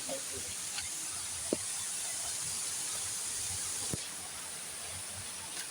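Steady rushing hiss of a waterfall, with two faint clicks about a second and a half and four seconds in.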